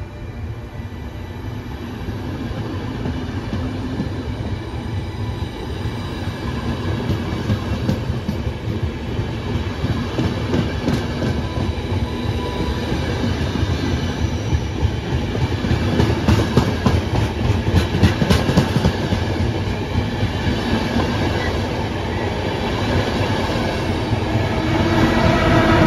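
Electric-hauled train passing through, a steady rumble that builds as it nears. Dense clicking of wheels over rail joints is loudest about two-thirds of the way in, and a steady whine comes in near the end.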